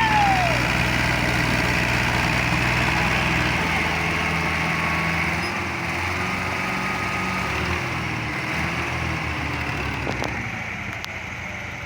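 Tractor diesel engine running steadily, its low note shifting about three and a half seconds in and easing slightly toward the end.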